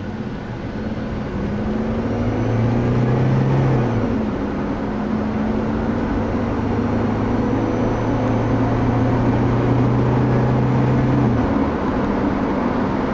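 2002 Jeep Liberty Limited's 3.7-litre V6 heard from inside the cabin while accelerating on the road. The engine note rises, drops as it shifts up about four seconds in, then holds steady over road and tyre noise until it changes again near the end.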